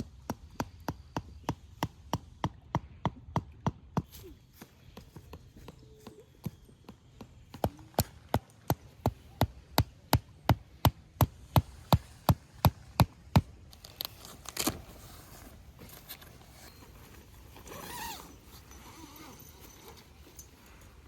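Two runs of evenly spaced sharp knocks: about three a second for the first four seconds, then, after a pause, a faster run of about four a second that stops about halfway through. A short noisy rustle follows about a second later.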